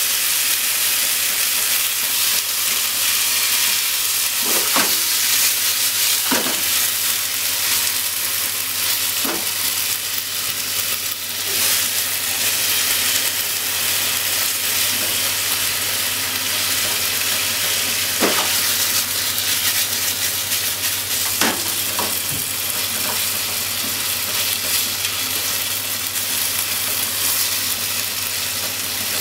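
Sliced pork and onion sizzling steadily in a frying pan as they are stir-fried, with the stirring utensil clicking against the pan a few times.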